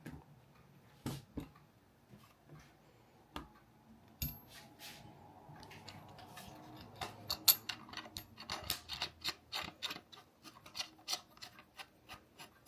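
Handling of small hard parts, likely camera rig gear: a few sharp clicks early on, then a quick run of clicks and light scrapes in the second half.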